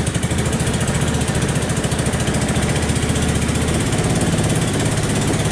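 Small Chinese side-by-side (UTV) engine running steadily with an even, rapid exhaust pulse, just after a cold start at freezing temperature that took more cranking than expected.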